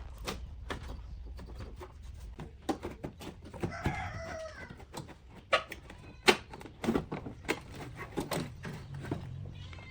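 A chicken calls once, briefly, about four seconds in, over a scatter of light clicks and knocks.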